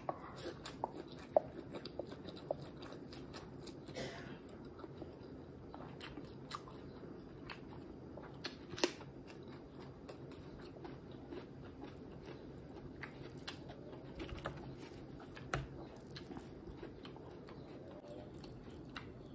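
A person chewing mouthfuls of sunny-side-up fried egg close to the microphone, with many short, scattered mouth clicks.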